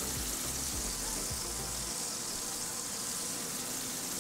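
Burger patties sizzling steadily in their fat on a hot flat-top griddle, with some low rumbling in the first two seconds.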